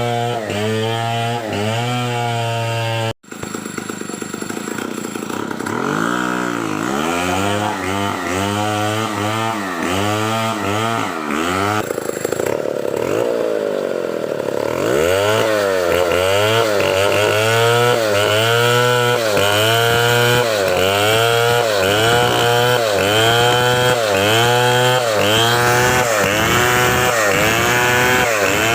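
Two-stroke chainsaw running at high speed, its engine pitch dipping and recovering over and over, a little more than once a second, as it is worked. The sound breaks off briefly about 3 seconds in.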